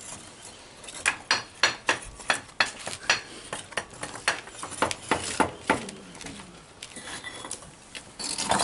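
Fired clay pieces knocking and clinking against each other in quick, irregular hard strikes, some with a short ring, as a wood-fired kiln is unloaded. There is a sparser spell about six seconds in, and the strikes pick up again near the end.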